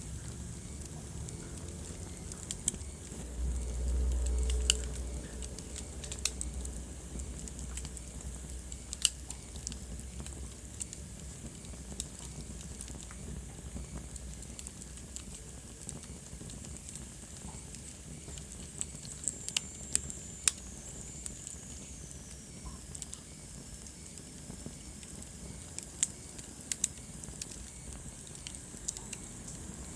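Wood fire burning in a fireplace, crackling with scattered sharp pops over a soft hiss. A low rumble swells briefly a few seconds in, and a faint high whistle slides down in pitch near the middle.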